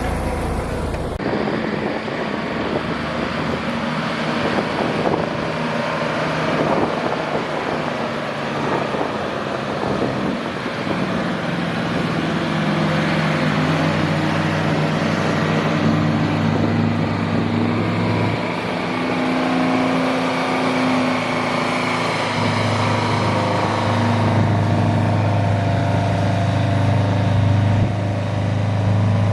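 Large truck engine running: partway through, its pitch steps up as it revs, and near the end it holds steady and louder.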